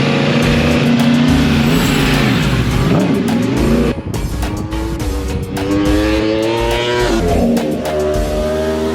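Yamaha R1 superbike engine accelerating hard on track, its pitch climbing through the gears with upshifts about four seconds and seven and a half seconds in.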